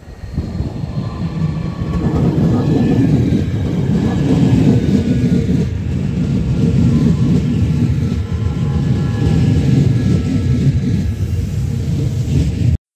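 Matangi electric multiple unit, two units coupled, running past along the platform: a loud rumble of wheels on rail that builds over the first couple of seconds and holds, with a faint whine from the traction motors slowly falling in pitch. It cuts off suddenly near the end.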